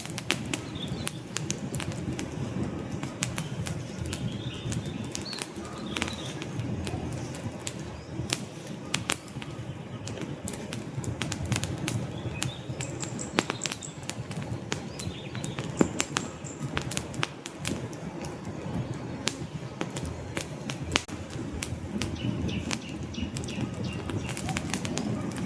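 Wood fire burning in a fireplace: irregular sharp crackles and pops of the logs over a steady low rumble of the flames.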